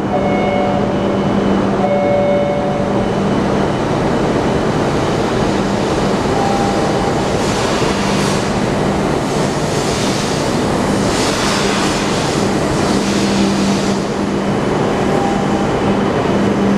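Hokkaido Shinkansen train pulling out of the station and gathering speed: a steady electric hum under a rushing noise that swells in the middle as the cars slide past. A few steady held tones sound in the first three seconds.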